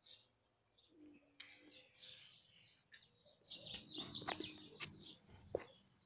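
Small birds chirping in a busy run of short, high calls from about a second and a half in until near the end. Under them, in the busiest stretch, comes a low scuffling and rustling, fitting the cats shifting in dry leaves.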